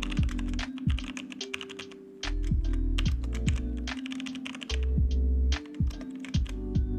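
Computer keyboard typing in quick, irregular clicks over background electronic music with deep bass notes and kick drums that drop in pitch.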